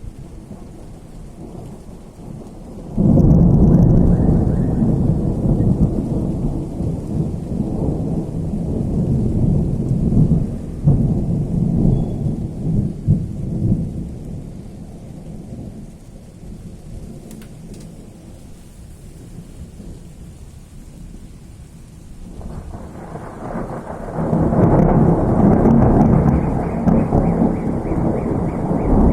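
Thunder in a rainstorm: a sudden loud clap a few seconds in rolls on as a deep rumble and slowly fades. After a lull a second rumble builds and is loud again near the end, with rain falling steadily throughout.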